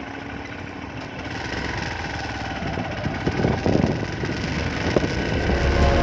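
Motorcycle engine running steadily, getting gradually louder.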